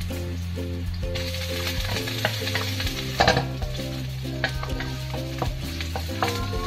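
Sliced Chinese sausage sizzling in oil in a stainless steel wok, stirred with a wooden spatula. The sizzle picks up about a second in, with scraping and a few sharp clicks of the spatula against the metal, the loudest just after the midpoint.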